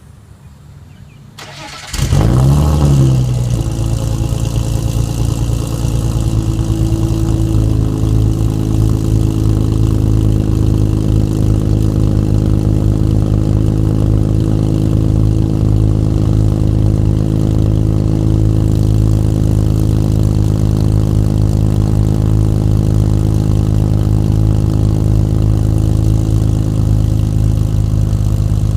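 BMW E46 330Ci's 3.0-litre inline-six, fitted with catless headers and no muffler but both resonators still in place, cold-started: a brief crank, then it catches about two seconds in with a short flare in revs. It then settles into a steady, loud fast cold idle, dropping a little in pitch several seconds later.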